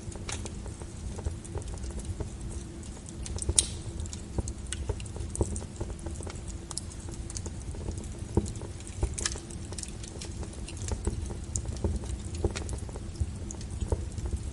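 Wood fire crackling, with irregular sharp pops and snaps over a low steady rumble; the loudest pop comes a few seconds in.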